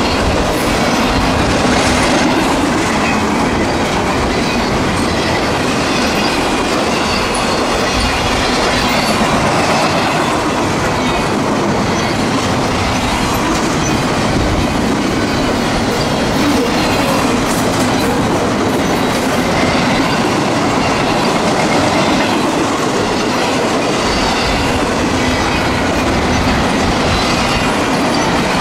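Double-stack container train passing close by: a steady, loud rumble of steel wheels on rail with a clickety-clack of wheelsets running over rail joints.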